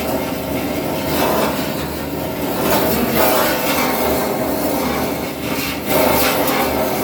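Grinder working the steel of a Dodge Ram's quarter panel, a steady, rough grinding and rasping.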